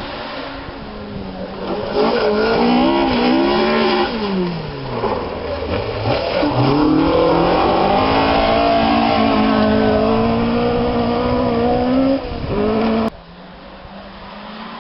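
Two-wheel-drive rally car engine at stage pace, revving hard with its pitch climbing and dropping through gear changes. About thirteen seconds in, the sound cuts off abruptly to a quieter, more distant engine.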